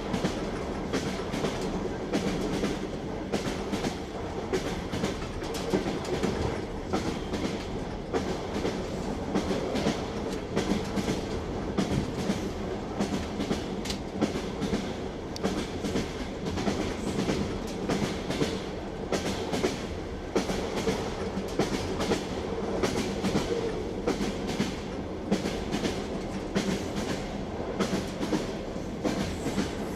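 Train wheels clattering over the rail joints as the train runs at steady speed: a continuous rumble with a low hum under it and a run of sharp clicks and knocks, several a second.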